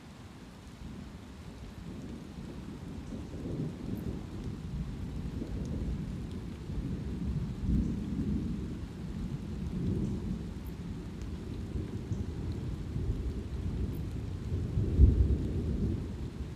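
Rolling thunder rumbling over a steady patter of light rain. The rumble builds from about a second in, swells several times and is loudest about fifteen seconds in, then eases off near the end.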